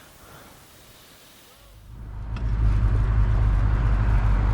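A vehicle engine running with a low, steady rumble that fades up a little under halfway through, after a quiet opening.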